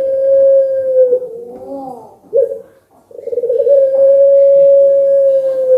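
Puter pelung (barbary dove) giving long drawn-out coos: one held call ends about a second in with a short dip, followed by softer wavering notes and a brief note. A second long coo then starts about three seconds in, held on one steady pitch.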